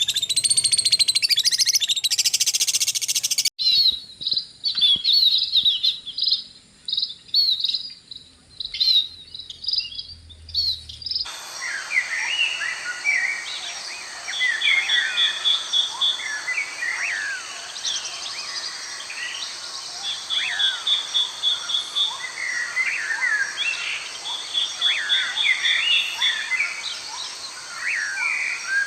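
Many small birds chirping and calling, their calls overlapping. The sound changes abruptly twice, at about 3.5 seconds and again at about 11 seconds. From the second change there is a steady high hiss behind the chirps and a short rapid trill repeated several times.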